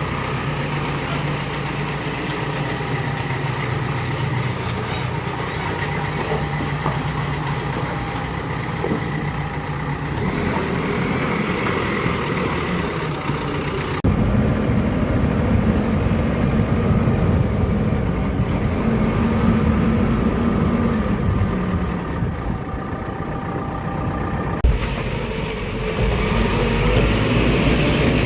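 Heavy diesel machinery engine running steadily. The sound changes abruptly twice, about 14 and 25 seconds in, getting deeper and louder after the first change.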